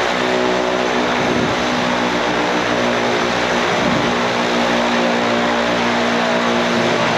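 De Havilland Canada Twin Otter's twin turboprop engines and propellers running steadily: a loud, even propeller drone over a broad rush of engine and air noise.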